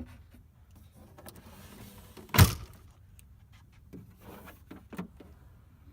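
A single loud slam about two and a half seconds in, from part of the SUV's body, a door or the tailgate, being shut, with quieter knocks and handling noise around it.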